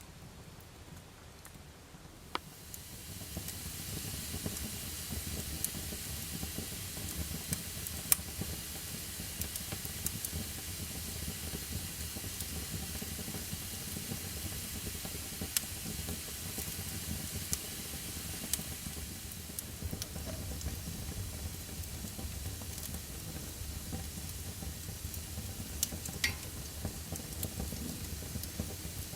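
Wood fire burning, lit by a paraffin-and-wood firelighter cube: a steady hiss that swells about two to four seconds in, with scattered crackles and pops.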